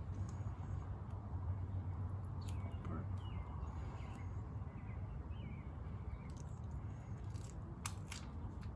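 Short bird chirps over a steady low hum, with two sharp clicks near the end.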